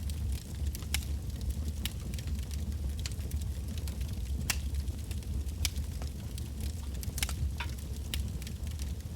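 Wood bonfire burning, with irregular sharp crackles and pops a few times a second over a steady low rumble.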